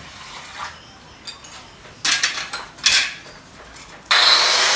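Ceramic tiles clinking and scraping as they are handled, with two louder clatters about two and three seconds in. Just before the end, a loud, steady power-tool noise starts up and keeps going.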